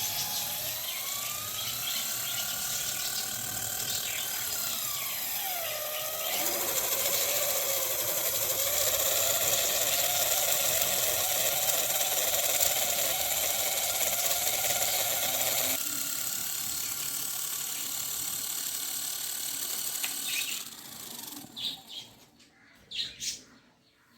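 Small electric motor of a homemade knife sharpener whining, its pitch rising and then falling as it is loaded, with a steady grinding rasp from about six seconds in. The grinding eases about sixteen seconds in, the motor stops about twenty seconds in, and a few light clicks follow.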